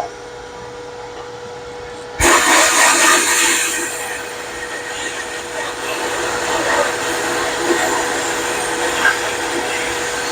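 Dust-collection vacuum on a media blasting setup running with a steady hum; about two seconds in, the glass-bead blaster's air nozzle opens with a sudden loud hiss that carries on as the beads blast rust off a floorboard.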